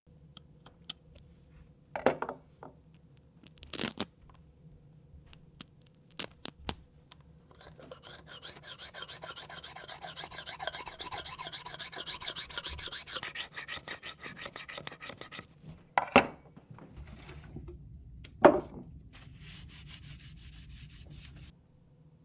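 Hand work on an arrow for fletching: a few sharp knocks and clicks from handling, then about eight seconds of fast, even rubbing strokes against the shaft, with a fainter hiss near the end.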